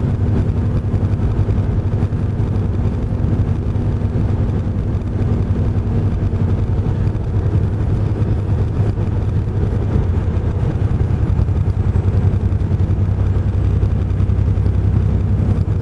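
Tractor-trailer truck engine and road noise, a steady low drone.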